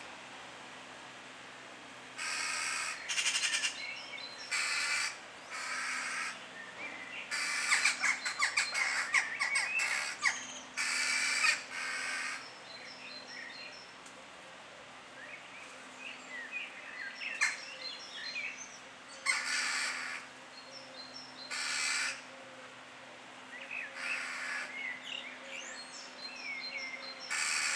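Birds calling: harsh, cawing calls about half a second each, repeated in bunches with gaps, among fainter chirps and twitters.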